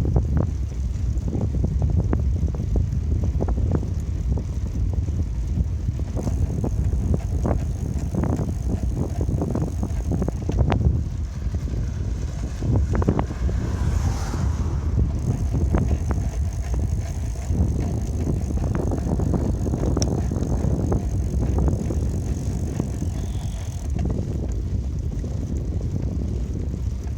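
Bicycle riding along, heard from a microphone on the bike: a steady low rumble of tyres and wind on the microphone, broken by frequent short clicks and knocks.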